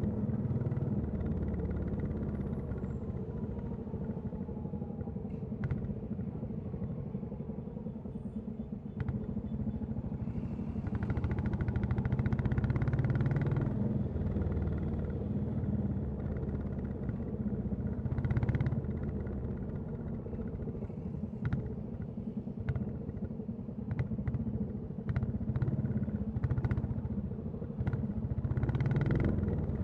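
Royal Enfield Classic 350 single-cylinder engine and exhaust running while being ridden, with its steady low thump. The engine swells louder under throttle about eleven seconds in and again near the end, and a few short sharp ticks come in the latter half.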